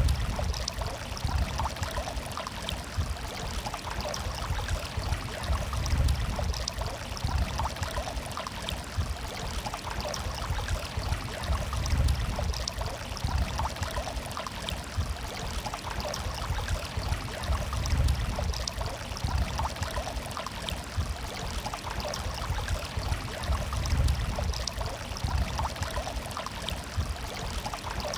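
Running water murmuring steadily, with a deeper low swell about every six seconds.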